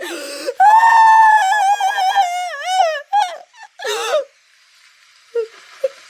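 A very high-pitched cartoon-style character voice crying, a long wavering wail that breaks into a few short sobs about three to four seconds in, then stops.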